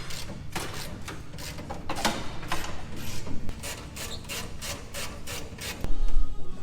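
Rhythmic back-and-forth scraping of a hand tool being worked against a part, about three strokes a second. A louder low rumble comes in near the end.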